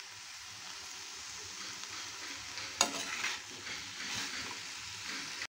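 Sliced spine gourd frying with a steady sizzle while a slotted steel spoon stirs it through the pot. There is a sharp clink of the spoon against the metal pan about three seconds in, with a few lighter scrapes just after.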